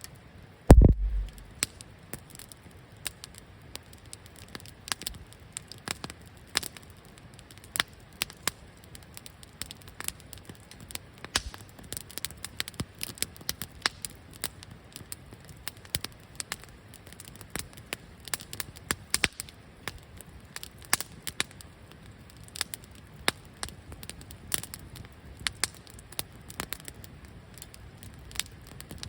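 Wood campfire crackling, with sharp irregular pops throughout. There is a single low thump about a second in.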